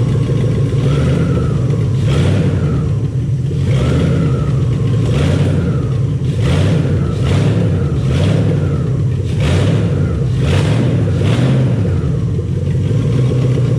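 Carbureted Ford 4.6 DOHC 32-valve V8 running, a steady low drone with a rushing hiss that swells and fades about once a second through the middle.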